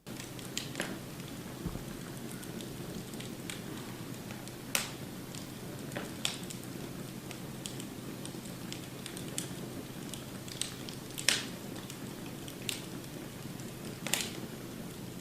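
Wood fire crackling in a fireplace: a steady low rush of flames with scattered sharp pops and snaps, the loudest about eleven seconds in.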